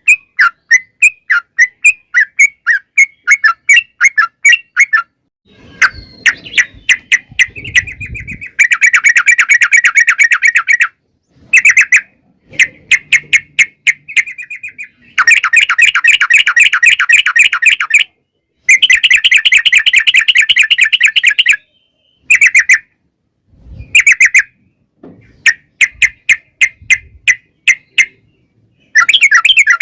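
Trucukan (yellow-vented bulbul) singing: fast runs of rapidly repeated chattering notes, in long trills of two to three seconds broken by short pauses.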